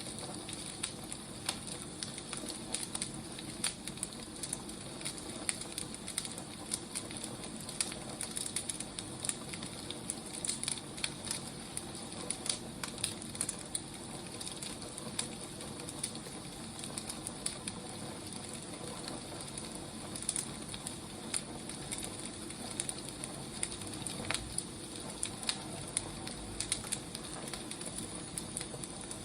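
Burning firewood crackling: a steady hiss scattered with many small sharp pops and snaps.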